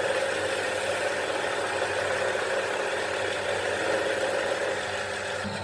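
A motor running steadily at an even speed, like an engine idling.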